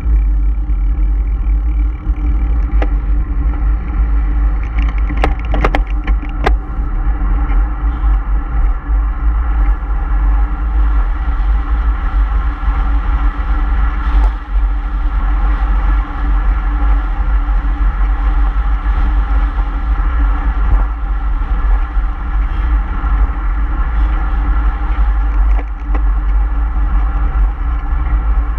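A motor vehicle running steadily as it drives along a road: a constant engine hum over a heavy low rumble. A short cluster of sharp clicks comes about five to six seconds in.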